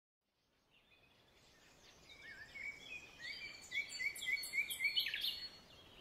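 Forest birdsong fading in from silence: several birds singing repeated short chirping phrases over a faint background hiss.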